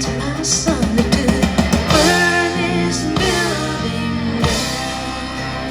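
A song played back over a hi-fi system, Harbeth P3ESR speakers with a REL T5 subwoofer, picked up in the room by a phone: guitar, drums and a sung line over a steady bass.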